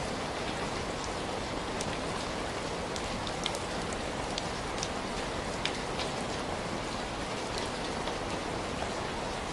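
Steady rain falling: an even hiss with scattered sharp ticks.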